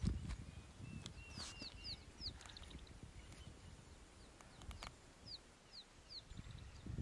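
Wild birds calling in the bush: runs of short, high, falling whistled notes, about three to four a second, with a short run of lower notes about a second in. A brief low rumble sounds right at the start.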